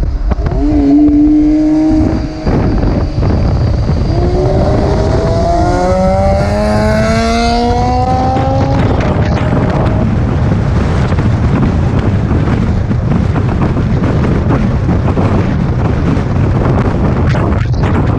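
Car engine accelerating over heavy, steady road and wind noise: about four seconds in, its pitch climbs steadily for about five seconds, then falls back into the noise.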